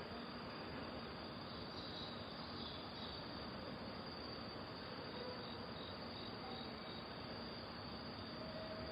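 Crickets chirping, with a run of short, evenly repeated high chirps midway, over a steady background hiss.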